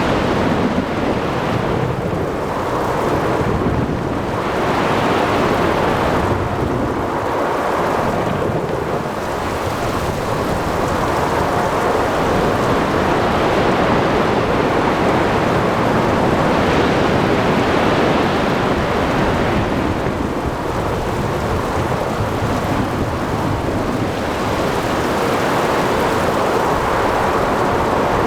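Storm at sea: a steady roar of rain and breaking waves under rumbling thunder and wind, swelling and easing every few seconds with no sharp clap.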